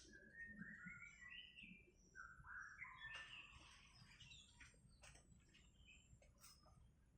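Sooty-headed bulbul giving a soft run of short chirps that step upward in pitch, followed by a few faint ticks.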